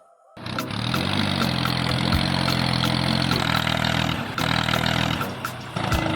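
A vehicle engine sets in about half a second in, rises briefly in pitch, then runs steadily.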